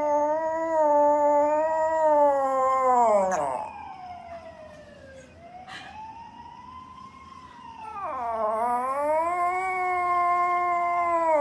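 Dog howling: a long held howl that falls away about three seconds in, a fainter rising-and-falling howl, then a second long howl that swoops down, rises and holds before falling off near the end.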